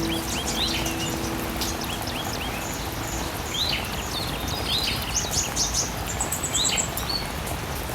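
Steady hiss of artificial rain spraying down, with many small birds giving short, quick upward-sweeping chirps throughout.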